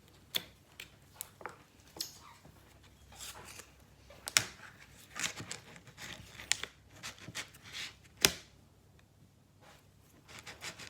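Glue-and-toothpaste slime being stirred in a container, still runny and not yet clumped: irregular sticky clicks and scrapes, with a couple of louder sharp taps.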